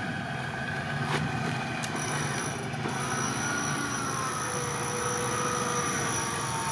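Off-road 4x4 engine running steadily, its note wavering slightly. A thin high whine comes in about two seconds in.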